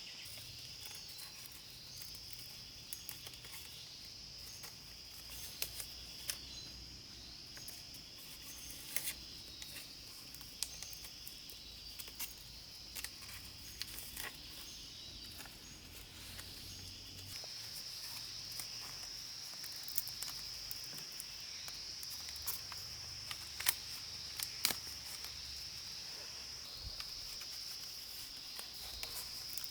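A steady, high-pitched chorus of insects that grows a little stronger about halfway through, with many scattered small clicks.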